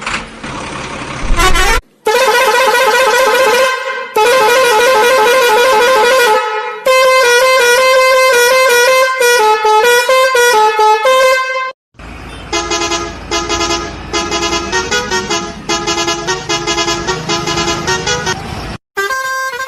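Musical vehicle horn playing tunes in several long loud blasts, its pitch stepping from note to note, with short breaks between the blasts.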